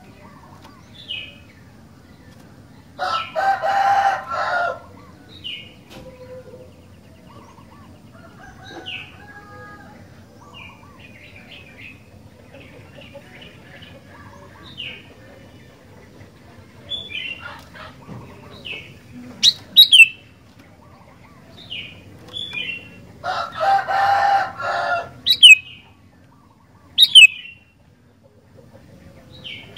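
Sooty-headed bulbul (kutilang) calling with short repeated chirps, with a few sharp loud notes near the end. Twice, about 3 s in and again about 23 s in, a longer, louder call of about a second and a half cuts in over the chirps.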